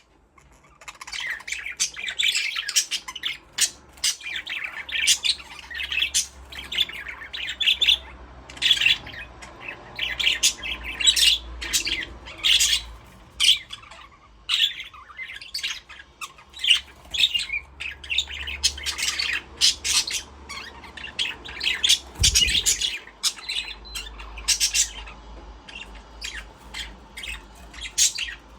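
A flock of budgerigars chirping continuously, many short calls overlapping one another.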